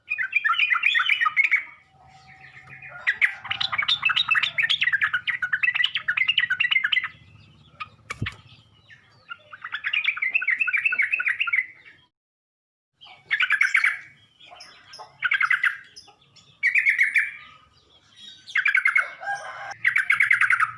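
Yellow-vented bulbul song played as a lure: bursts of rapid, bubbling chattering notes. Longer phrases come in the first half, then shorter phrases follow each other quickly toward the end. A single sharp click comes about eight seconds in.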